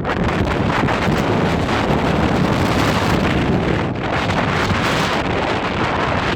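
Strong windstorm gusts buffeting the microphone and a clear plastic tent, a loud, continuous rush of wind.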